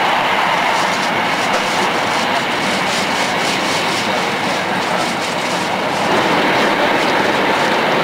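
Tohoku Shinkansen train running at speed: a steady rushing rumble with faint ticks scattered through it.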